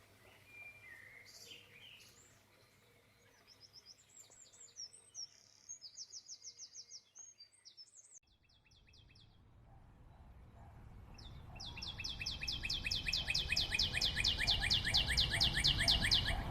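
Birds chirping in quick repeated trills: a softer run of high chirps in the middle, then a louder, fast, even trill in the second half. Underneath, a low rumbling noise grows steadily louder.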